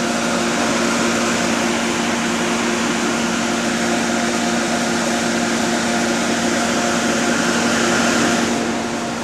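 Electric cooling fan of a double-decker bus running with a steady whooshing whir over a constant engine hum; the whoosh drops away near the end while the hum carries on.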